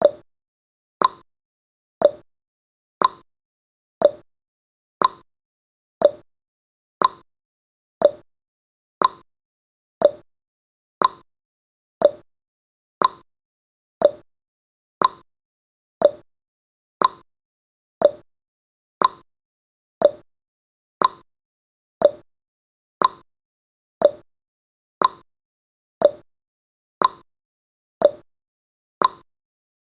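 Countdown timer's ticking sound effect: one short, sharp tick every second, evenly spaced, like a clock's tick-tock.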